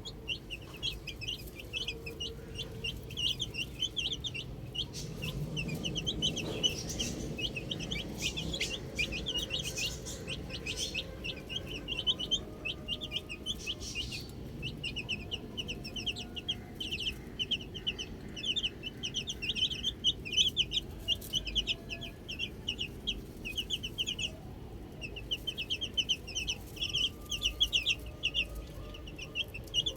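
A brood of baby chicks peeping without pause: many short, high chirps overlapping.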